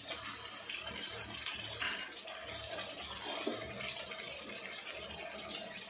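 Sliced onions and cumin sizzling in hot oil in an aluminium kadhai, a steady frying hiss, with a faint steady hum underneath.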